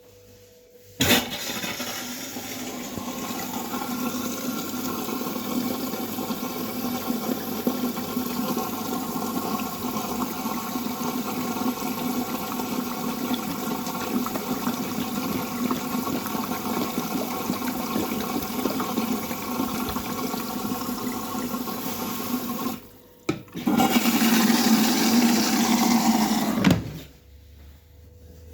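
Water rushing steadily into the drum of a Samsung WF806U4SAGD front-loading washing machine at the start of a drum-cleaning cycle. It starts abruptly, breaks off briefly near the end, comes back louder for a few seconds, then stops abruptly.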